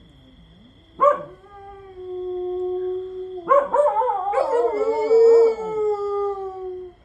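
Two dogs howling. One starts about a second in with a long, steady howl. A second joins at about three and a half seconds, and their wavering howls overlap until they die away near the end.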